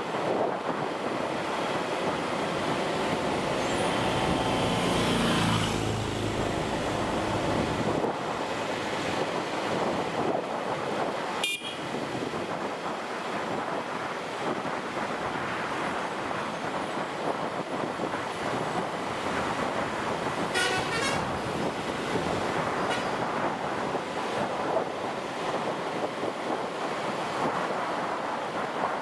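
Road traffic heard from a moving motorcycle: steady engine, road and wind noise. A vehicle horn beeps several quick times a little past the middle, and there is a single sharp click before that.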